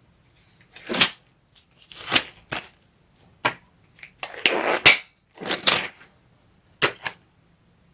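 Hands handling the fan heater and its packaging: a series of short crinkling rustles and sharp knocks, about seven in all, the longest and loudest a little past the middle.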